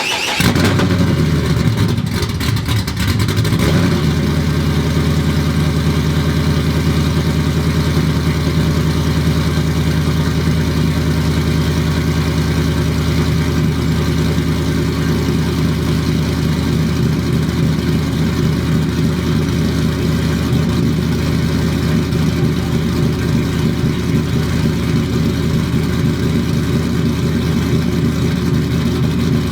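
Pickup truck engine just started, running unevenly for the first few seconds, then settling into a steady idle.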